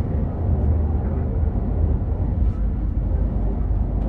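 Meitetsu Panorama Super limited express train running at speed, heard on board: a steady low rumble.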